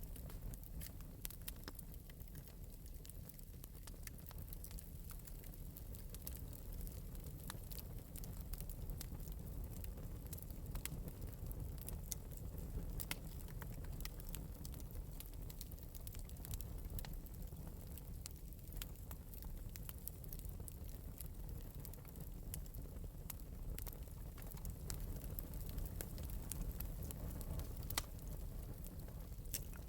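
Fire crackling lightly in an open metal fireplace: frequent small, sharp pops scattered over a steady low rumble.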